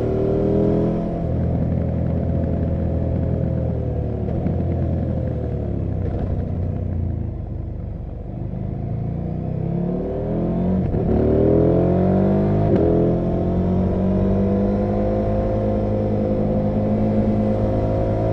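KTM 790 Adventure R's parallel-twin engine pulling as the bike is ridden, its revs rising and falling. It eases off and goes quieter about eight seconds in, climbs again in two quick rises, then holds steady near the end.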